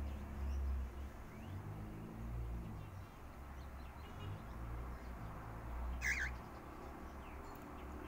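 Caged pet bird giving a single short, wavering chirp about six seconds in, with a few faint calls before it, over a steady low rumble.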